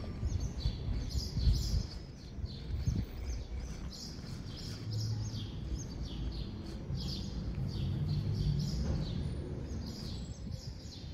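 Small songbirds chirping and singing, with short, falling high notes repeated again and again over a low background rumble.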